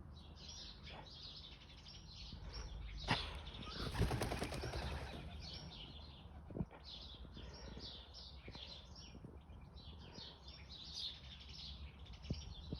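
Small garden birds chirping repeatedly. About three seconds in, a louder burst of wing flapping lasts a couple of seconds, with a few single clicks later on.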